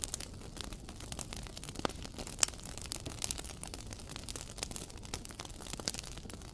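Wood fire crackling in a fireplace: irregular sharp snaps and pops over a steady low rumble, with one louder pop about two and a half seconds in.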